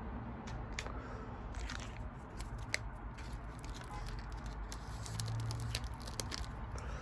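Pokémon trading cards and a foil booster-pack wrapper being handled: scattered soft clicks and crinkles over a low steady hum.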